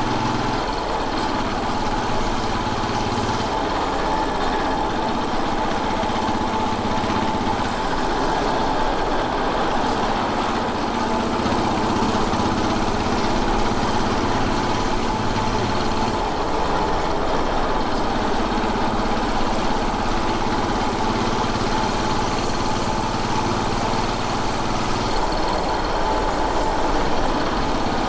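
Royal Enfield Bullet 500's air-cooled single-cylinder engine running steadily, its note shifting a few times as the revs change.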